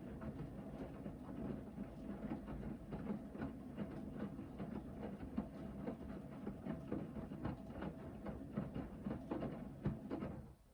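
Hoover VHD 9163 ZI washing machine in its main wash, the drum turning and tumbling the wet load with irregular knocks and sloshing over a faint steady motor whine. The drum stops near the end.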